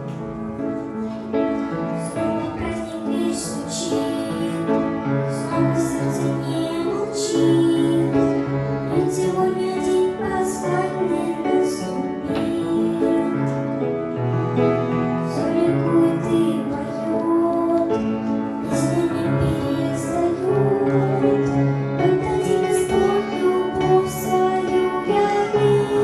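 A song: a singing voice over instrumental accompaniment, with a gentle, steady melody.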